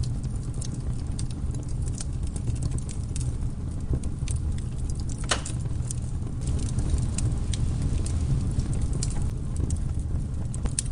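Wood campfire crackling: irregular sharp pops and snaps, one stronger pop about five seconds in, over a steady low rumble.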